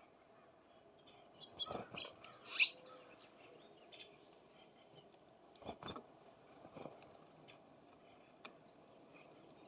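Songbirds at a feeder: scattered small taps and rustles in two or three clusters, with one short high chirp about two and a half seconds in.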